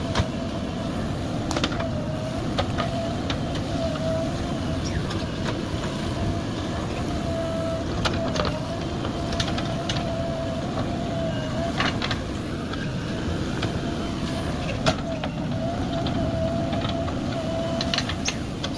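JCB 3DX backhoe loader at work: its diesel engine runs steadily under a whine that wavers in pitch, with sharp metallic knocks now and then.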